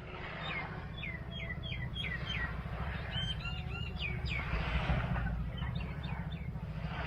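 A bird calling in runs of short, quick chirps, each sliding down in pitch, three bursts of them, over a steady low rumble.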